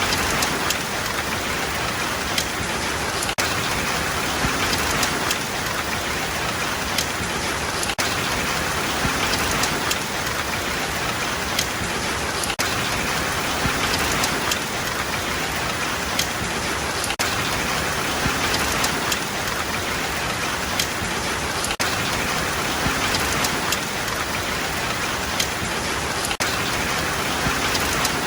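Steady rain falling on a hard surface, a dense even patter with individual drops ticking sharply here and there.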